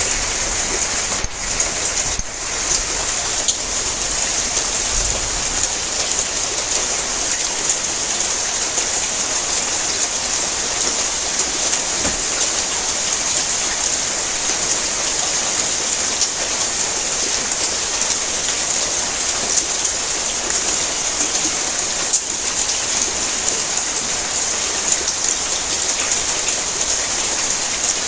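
Heavy rain falling on a tin roof: a steady, dense hiss of drops with scattered sharper ticks.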